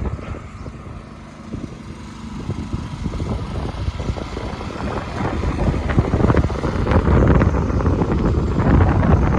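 Strong wind buffeting the microphone: an uneven low rumble that swells louder about five seconds in, with a steady engine-like hum beneath it early on.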